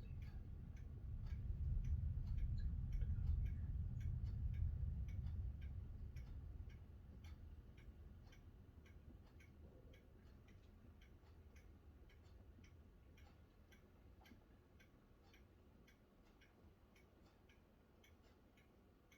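Rolling thunder: a low rumble that swells a couple of seconds in and dies away over the next several seconds. A steady, regular light ticking runs underneath.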